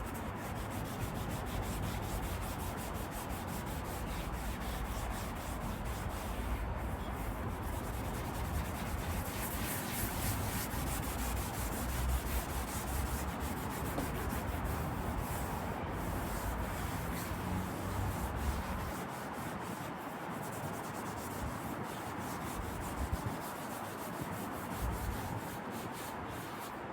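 Abrasive pad rubbed by hand over a leather car seat, scuffing the leather to give it a keyed surface for leather paint. The scratchy rubbing runs on continuously.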